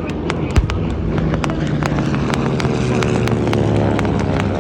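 An engine running with a steady low hum that grows a little louder from about a second in, with many short sharp clicks over it and one thump just after the start.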